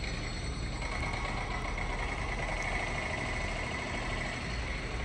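Stationary heritage passenger train giving off a steady mechanical running hum and hiss, with a high whine throughout.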